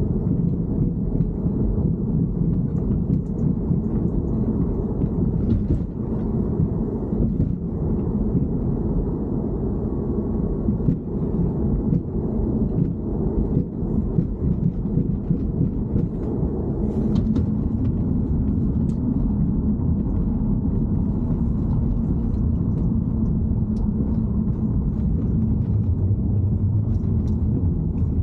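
BMW E90 3 Series running, a steady low rumble with faint scattered clicks and ticks above it.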